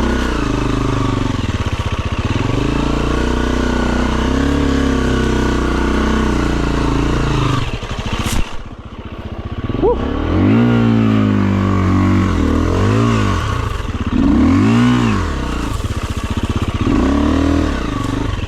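Dirt bike engine running steadily for several seconds, dropping off briefly about halfway through, then revved up and down over and over, its pitch rising and falling every second or two.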